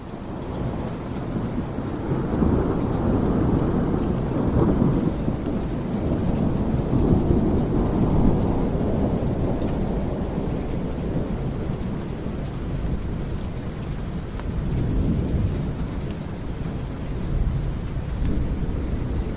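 Steady rain with low rolling thunder, the rumble swelling a couple of seconds in and again around eight seconds, then easing back to a steady wash.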